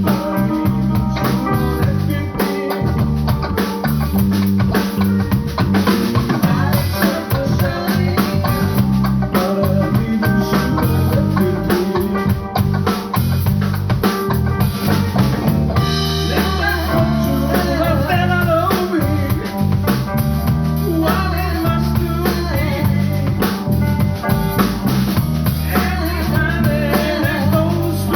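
Live band playing with drum kit, guitar and bass, and a singing voice.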